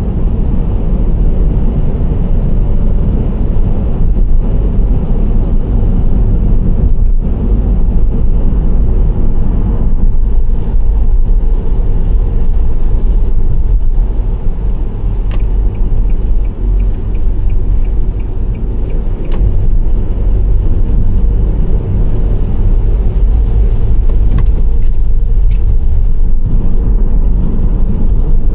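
Steady low rumble of a Nissan Serena C25 minivan driving: tyre and road noise with the engine underneath. A few short sharp clicks come in the second half.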